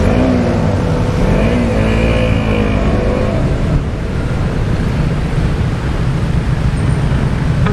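Motorcycle engine revving, its pitch rising and falling several times in the first few seconds, then running steadily.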